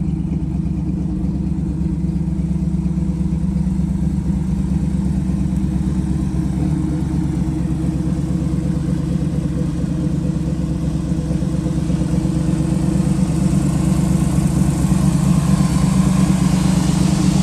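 454 big-block Chevrolet V8 of a 1932 Chevrolet street rod running steadily, getting louder and brighter over the last few seconds.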